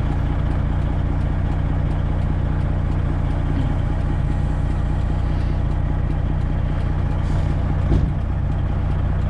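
Semi truck's diesel engine idling steadily, with a single thump about eight seconds in.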